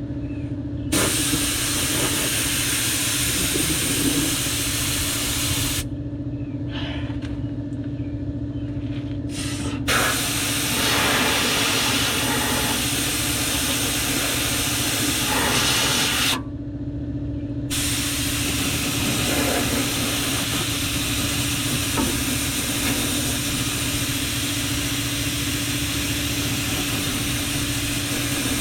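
Air-powered undercoating spray gun hissing as it sprays rubberized undercoating, in three long bursts with the trigger let off about 6 seconds in and again about 16 seconds in. A steady low motor hum runs underneath.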